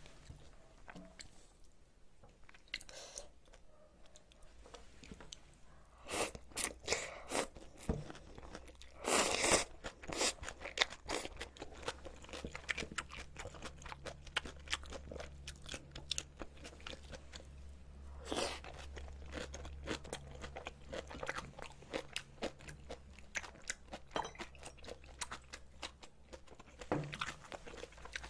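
Close-miked crunching and chewing of spicy napa cabbage kimchi, many short crisp crunches that get busier and louder about six seconds in.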